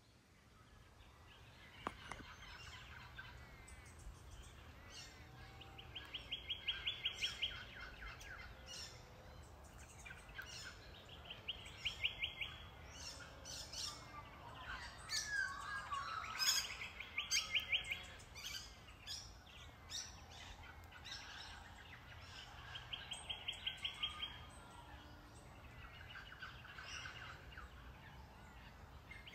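Wild birds calling: one bird repeats a short, rapid trill every four or five seconds, with scattered chirps between, over a faint low hum.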